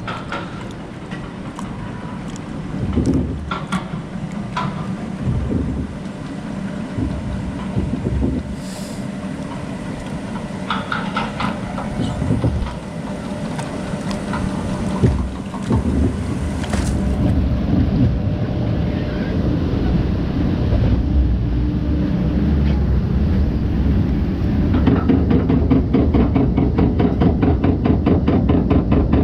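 Onride sound of a log flume boat travelling along its water channel: water sloshing and rumbling, with wind on the microphone and occasional knocks of the boat. Near the end a rapid, evenly repeating clatter begins.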